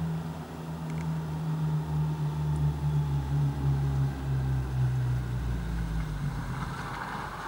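A car's engine on a snow-covered road, a steady low hum that sinks slightly in pitch and dies away about six seconds in as the car skids. A rushing noise rises near the end.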